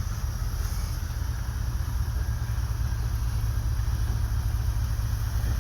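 Ford F-150 pickup's engine running steadily: a low, even rumble with no impact.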